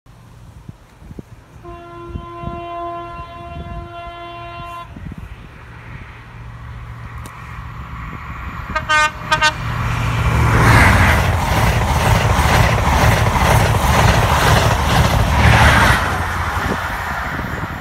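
Train horn sounding one long note, then three short toots a few seconds later as a passenger train approaches. The loud rush of the train passing at speed follows for about six seconds and then fades.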